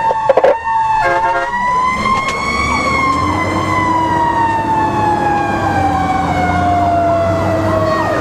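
Fire engine siren wailing: its pitch climbs slowly, then falls in one long glide for about five seconds before starting to rise again at the end. The truck's engine drones underneath, and a brief tone sounds about a second in.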